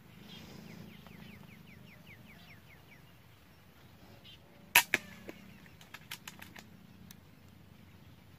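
Air rifle shot about five seconds in, a sharp crack followed a fraction of a second later by a second smaller crack, then a few light clicks. Before it, a bird gives a rapid series of short falling notes.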